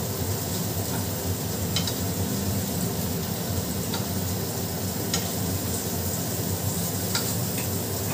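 Marinated paneer tikka pieces sizzling in shallow oil in a pan while a spoon stirs and turns them, with a few sharp clinks of the spoon against the pan.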